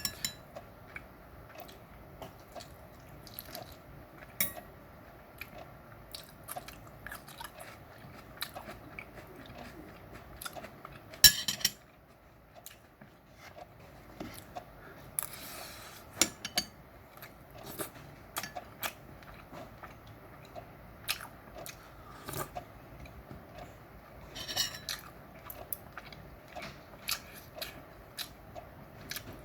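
A person chewing and eating close to the microphone, with wet mouth smacks and occasional clinks of utensils on dishes. There is one louder clatter about eleven seconds in.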